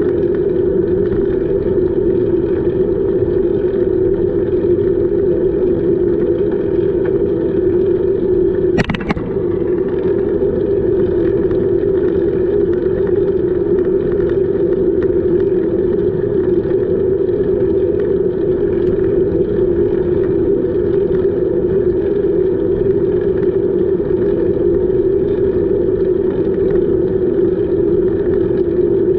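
Steady rushing noise of a bicycle ride, from wind and rolling noise on the camera microphone. A single sharp click comes about nine seconds in.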